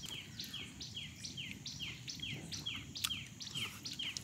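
A bird calling a steady run of short, high, falling notes, about two or three a second, with a single sharp click about three seconds in.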